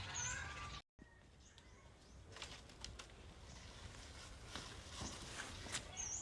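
Quiet farmyard with faint bird sounds: a short high chirp at the start and again near the end, and scattered faint taps between them, after a brief dropout to silence about a second in.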